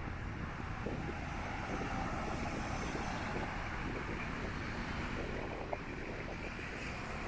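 Wind buffeting the microphone as a low, uneven rumble over a steady outdoor background hiss, with a few faint ticks.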